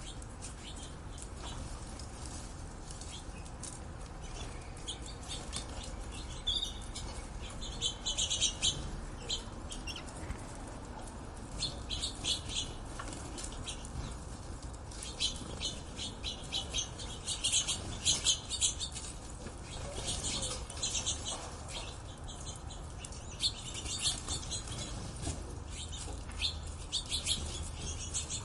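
Small birds chirping and twittering in rapid bursts of high, short notes, repeated in clusters over a low background rumble.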